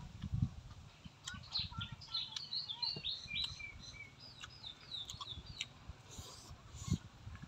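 Small birds chirping in a quick run of short, falling notes, with close mouth and chewing sounds from eating at the start and again near the end, when a grilled sausage is bitten.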